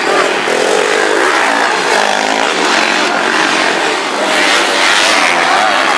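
Several motocross motorcycles racing, their engines revving up and down.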